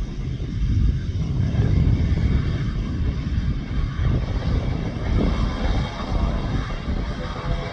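Jet airliner engines rumbling as the aircraft passes, with the roar filling out and growing from about a second in.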